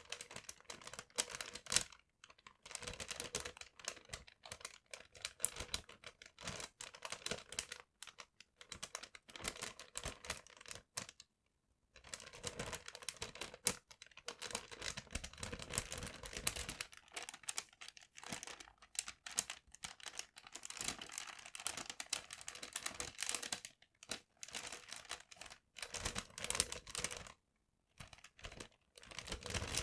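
Paper being handled and crinkled in irregular crackly bursts, with a brief silent pause about halfway through and another near the end.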